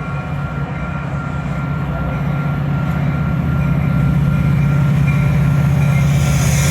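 A diesel train approaching, its locomotive's engine a steady low hum that grows louder throughout.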